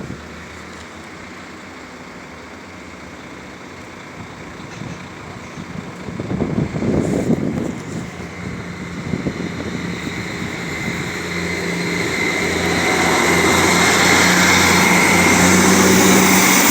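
A motor vehicle's running noise grows steadily louder through the second half, over a steady low engine hum, as it comes close.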